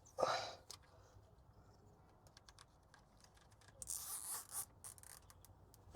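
Faint handling sounds of plastic cable ties being fastened around a fuel line: a short rustle right at the start, scattered light ratcheting clicks, and a brief scratchy zip about four seconds in.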